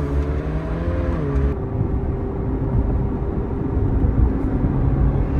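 Ferrari 458 Speciale's V8 pulling under acceleration: its note rises, drops sharply about a second in at an upshift, then runs steadily at the lower pitch.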